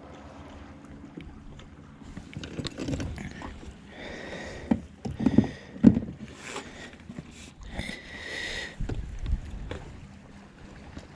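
Handling noises on a fishing kayak: a run of knocks and bumps against the hull, with two short squeaks about four and eight seconds in.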